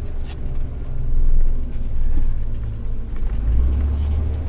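Fire engine's diesel engine running, heard from inside the cab as a steady low rumble that grows louder about three and a half seconds in. A single sharp click comes just after the start.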